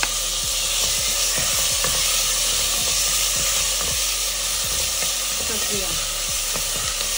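Chopped onions and tomatoes sizzling in hot oil in a stainless-steel pressure cooker, a steady hiss, while a wooden spoon stirs them, with scattered short clicks of the spoon against the pot.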